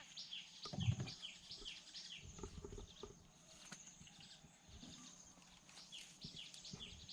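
Faint birds chirping outdoors, many short downward-sliding chirps repeating, over a steady high-pitched hum; a soft knock about a second in.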